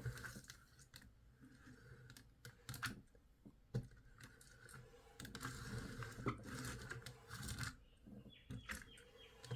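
Faint, scattered clicks and light rattling of a plastic toy being handled and its mechanism worked by hand.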